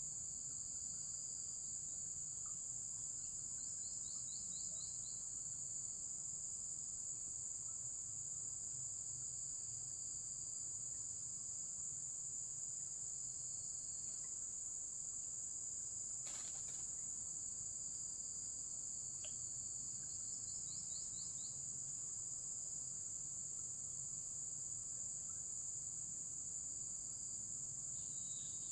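Steady, high-pitched chorus of insects singing without a break. A short run of quick repeated chirps from another caller comes three times, the last right at the end, and there is a single sharp click a little past halfway.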